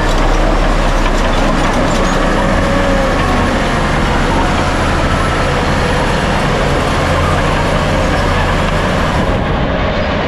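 Heavy crawler bulldozer's diesel engine running steadily and loud.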